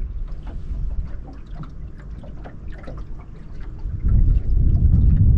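Wind buffeting the microphone, growing much stronger about four seconds in, over light water lapping and small clicks around the boat.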